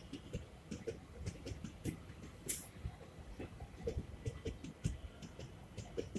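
Passenger train coaches rolling slowly past, their wheels knocking and clicking over the rail joints in an uneven series, with a short hiss about two and a half seconds in.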